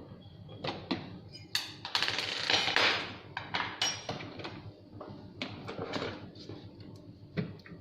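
Parts being handled during assembly: scattered clicks, knocks and clatter, with a dense rustling burst of well over a second starting about a second and a half in.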